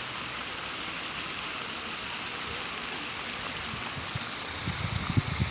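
Steady hiss of flowing water, like a stream or small cascade running. Irregular low thumps come in near the end.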